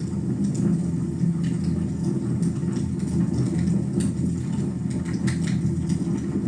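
Wood fire burning in a fireplace: a steady low roar with scattered crackles and pops.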